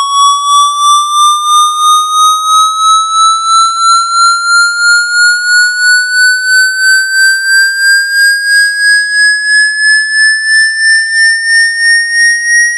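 Electronic water-eject tone for a phone: one steady pitch with overtones, gliding slowly upward and pulsing about three times a second.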